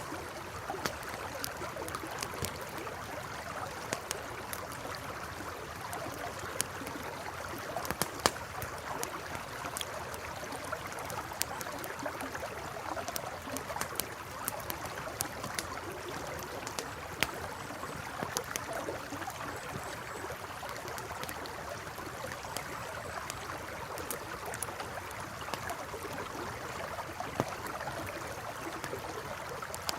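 Campfire crackling, with frequent sharp irregular pops and snaps, over the steady rush of a flowing river.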